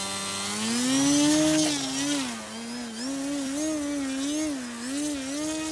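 Brushless electric motor and propeller of an E-flite Timber X RC plane whining as the throttle is opened. The pitch rises over the first second, then wavers up and down as the plane flies and the throttle changes.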